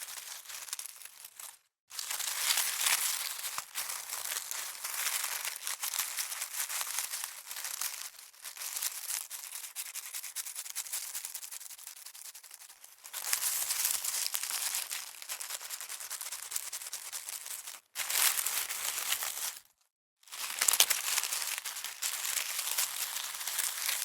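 Dry crinkling, rustling noise full of fine crackles, in several stretches broken by brief silent cuts about two seconds in and twice more in the last third.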